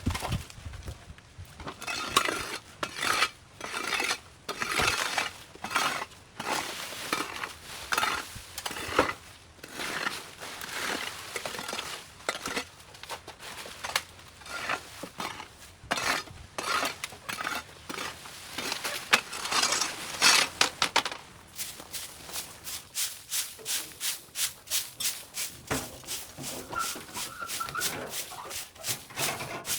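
Repeated scraping strokes of a hand tool working over the ground. They come irregularly at first, then settle about two-thirds of the way in into a fast, even rhythm of about two to three strokes a second.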